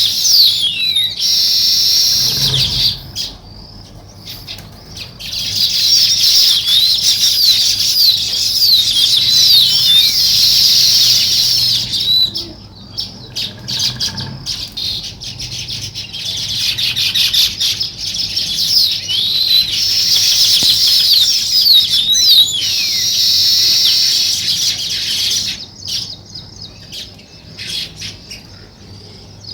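A flock of small songbirds chirping and chattering densely, with many quick falling notes. The chorus eases off briefly about 3 seconds in and again around the middle, and thins out near the end.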